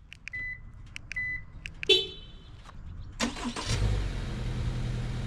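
Three clicks from key fob button presses, the first two each followed by a short high beep from the car. About three seconds in, a Subaru Crosstrek's boxer four-cylinder engine cranks, catches and settles into a steady low idle: a remote start.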